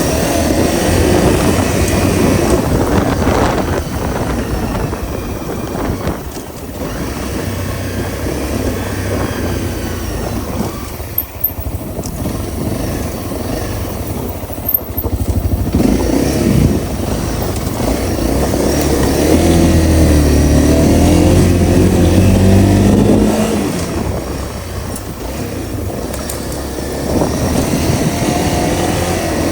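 Honda CRF250L's single-cylinder four-stroke engine running as the motorcycle is ridden, its pitch rising and falling with the throttle, with a couple of brief dips in the middle and a louder stretch of rising revs later on.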